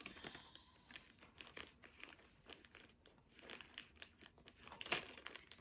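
Faint rustling and crinkling of packaging being handled, with scattered light clicks and taps. A slightly louder rustle comes near the end.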